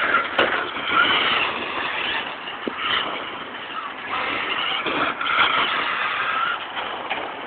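Traxxas Rustler RC stadium truck's brushed electric motor and drivetrain whining, the pitch rising and falling as the truck speeds up and slows down again and again, with a few sharp clicks and knocks.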